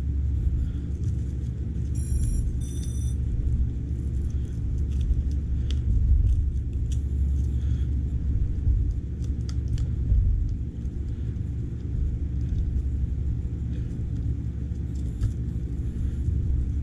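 A steady low rumble with scattered light clicks, and two short high electronic beeps about two and three seconds in.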